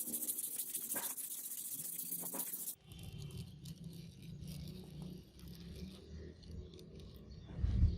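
Abrasive sanding or rubbing with a steady scratchy hiss, which stops abruptly about three seconds in. A quieter low hum with scattered light clicks and taps follows, with a louder low bump near the end.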